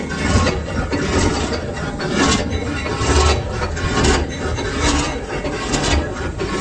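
Metal being worked on a running lathe: a rasping, scraping sound in repeated strokes about once a second, over the machine's low hum.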